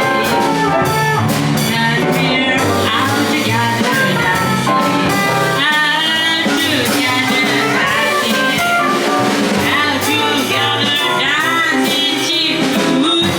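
Live jazz band playing, a busy melodic solo line over drums.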